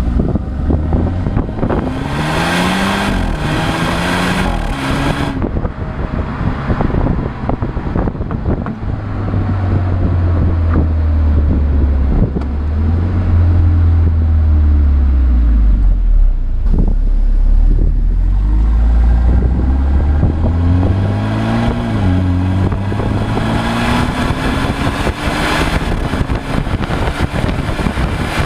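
A car driving under acceleration, its engine pitch rising and dropping several times as it goes through the gears, with road and wind noise.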